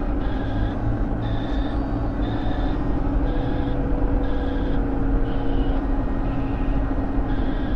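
A car driving on a highway in strong wind: a steady rush of road and wind noise with a low steady hum. Over it runs a faint series of short high notes, about two a second, changing in pitch.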